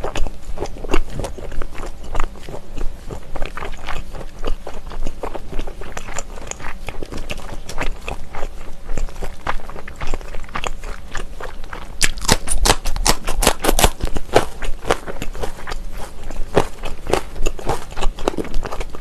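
Close-miked chewing of smoked pork belly: a steady stream of wet mouth clicks and smacks, with a quick run of sharp, crisp clicks about twelve seconds in.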